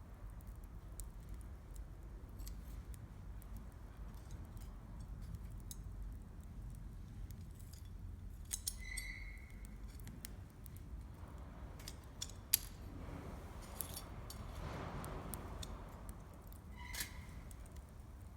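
Wood campfire crackling with scattered small pops over a low rumble, and two brief metallic clinks with a short ring, one about halfway through and one near the end, from metal cookware or a cup being handled.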